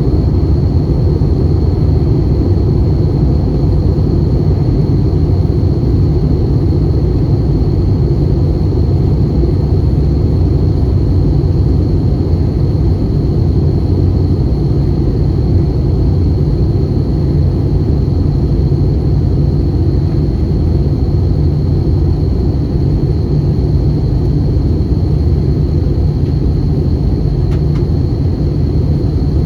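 Airbus A320 cabin noise heard from a window seat: a steady, loud rumble of engines and airflow with a thin, high, steady whine over it.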